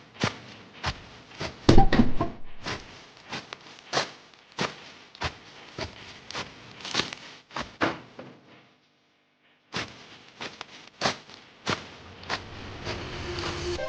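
A quick, uneven run of sharp knocks and clacks, two to four a second, broken by about a second of silence past the middle.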